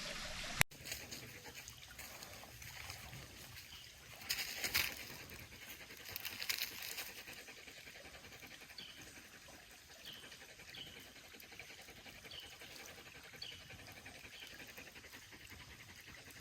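Faint outdoor ambience: a bird giving short, high, falling chirps every second or so over a soft trickle of water, with two brief swishes of noise earlier on.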